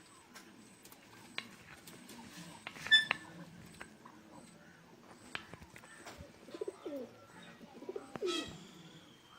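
Domestic pigeons cooing, with a short, sharp call from another bird about three seconds in, the loudest moment, and scattered light clicks.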